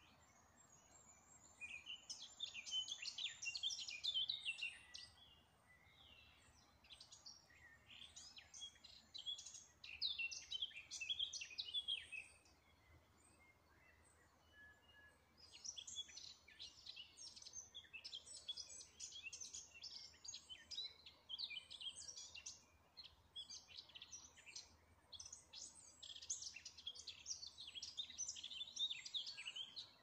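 Songbirds singing in bouts of quick, high-pitched notes, with pauses of a few seconds between bouts.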